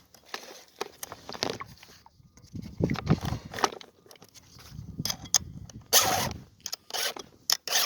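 Round file rasping across the cutters of a chainsaw chain in repeated hand strokes, irregular at first and coming as sharp, quick strokes in the last two seconds.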